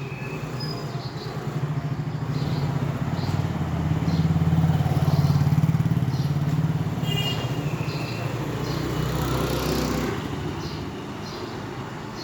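A motor vehicle's engine running close by, swelling to its loudest about halfway through and then fading, as if passing. Short high bird chirps come every second or so.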